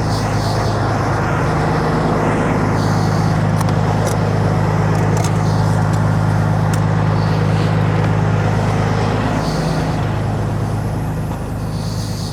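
Diesel engine of a Kenworth W900 semi truck idling with a steady low hum, with a few light clicks in the middle.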